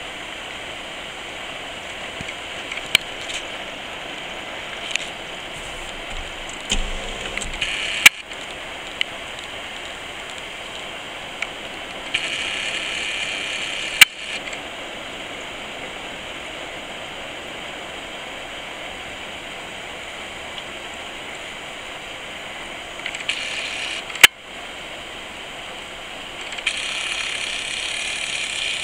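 Steady rain falling, a continuous hiss, with a few short louder rushes and three sharp loud clicks.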